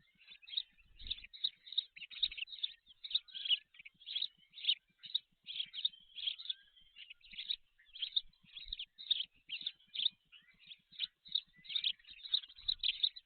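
Birds calling: a dense, rapid run of short high chirps, several a second.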